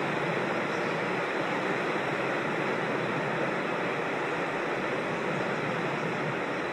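Rushing water of a creek tumbling over small falls, a steady, even rush.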